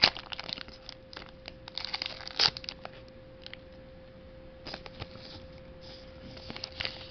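Foil booster pack wrapper crinkling and tearing, with Pokémon cards being handled in small clicks and rustles: a sharp snap at the start, a louder crinkle about two and a half seconds in, quieter for a moment, then more rustling near the end.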